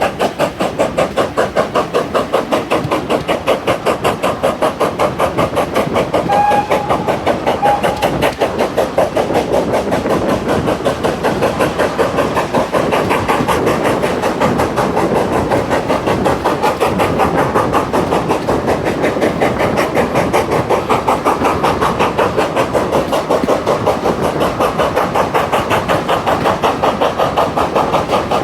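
Steam locomotive 6880 Betton Grange, a two-cylinder GWR Grange-class 4-6-0, working hard with a loud, even chuff from its chimney exhaust at about four to five beats a second.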